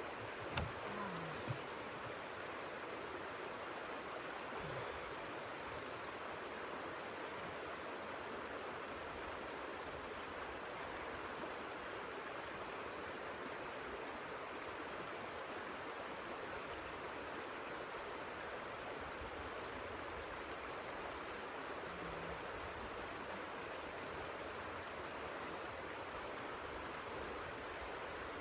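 Blizzard wind rushing in a steady, even hiss with no gusts or breaks. A few soft knocks sound in the first couple of seconds.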